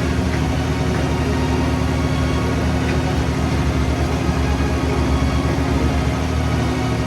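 Heavy truck diesel engine idling steadily, with an even low pulse.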